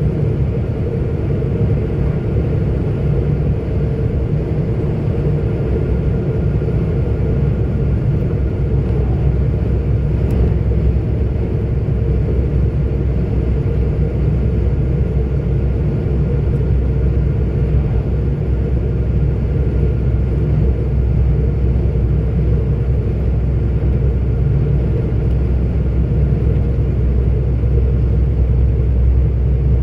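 Steady low rumble of a 44-ton articulated truck cruising, engine and road noise heard from inside the cab.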